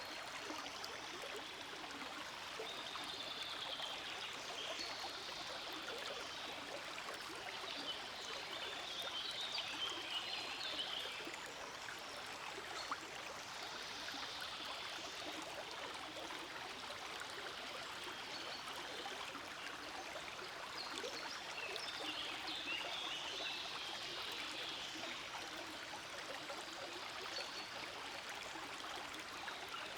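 Forest creek flowing steadily: an even rush of running water with trickling, swelling a little a few times.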